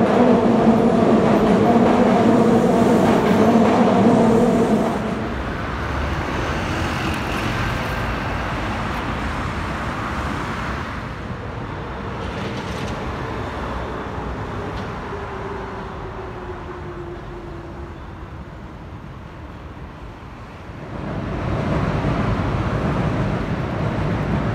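Subway train running fast past the platform, a loud rumble with a steady motor whine, which stops suddenly about five seconds in. Then quieter street traffic noise with a slowly falling hum, and an electric commuter train rumbling over an elevated steel viaduct, louder near the end.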